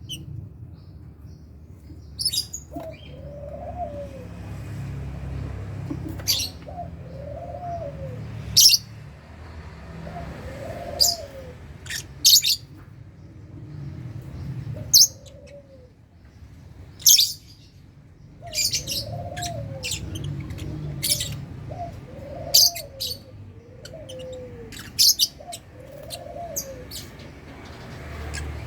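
Lovebirds chirping with sharp, high calls scattered irregularly. Under them a lower, rise-and-fall cooing note repeats every second or two, over a faint low rumble.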